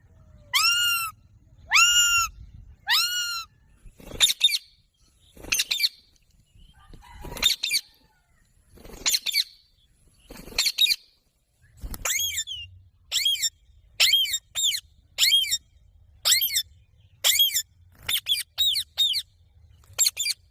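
A parrot calling over and over. It gives three arching squawks about a second apart, then sharper calls spaced a second or more apart, and in the last third a quicker run of short, falling calls.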